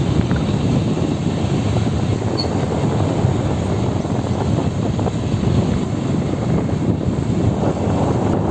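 A vehicle running along the road, with a steady rumble and wind buffeting the microphone.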